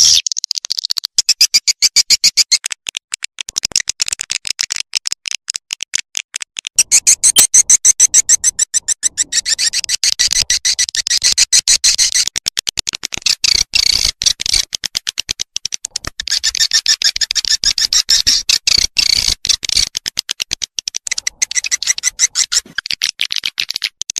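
Swiftlet lure recording: a dense, high-pitched twittering chatter of rapid pulses, many a second, broken now and then by short pauses. This is the kind of call track played from bird houses to attract edible-nest swiftlets.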